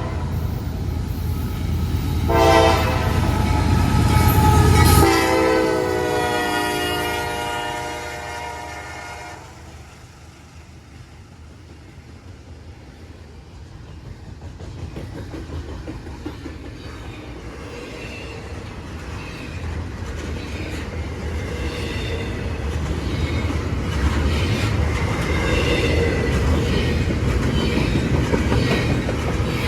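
CSX freight train's lead locomotives sounding their horn at a grade crossing: a short blast, then a long one that drops in pitch as they pass about five seconds in, over heavy engine rumble. After the horn stops, the freight cars roll past with steady clickety-clack that grows louder toward the end.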